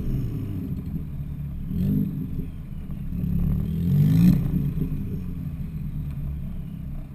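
Exhaust note of a Ford Fiesta ST with a side-exit exhaust: the engine rises in pitch briefly about two seconds in, then climbs longer to a peak around four seconds, before settling back to a steady low rumble.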